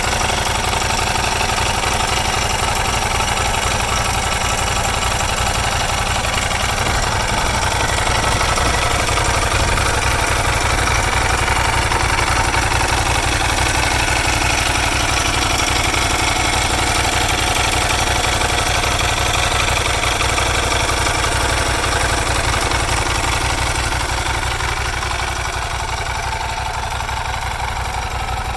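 Motorcycle engine running steadily at idle, a little quieter near the end.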